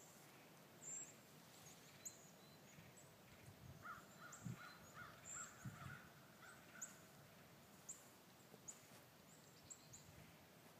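Near silence outdoors with faint distant bird calls: a run of short, evenly repeated calls from about four to seven seconds in, and scattered high chirps.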